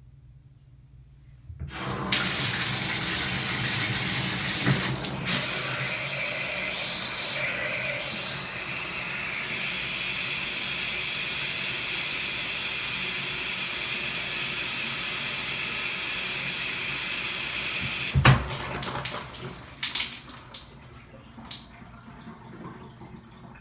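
Shower head spraying water. It is turned on about two seconds in and runs steadily, then shuts off with a clunk near the three-quarter mark and fades to a few drips.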